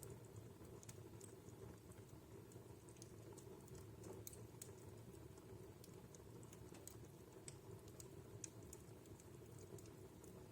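Wood fire burning in a home fireplace, crackling faintly: irregular small pops and snaps over a soft steady low background of the flames.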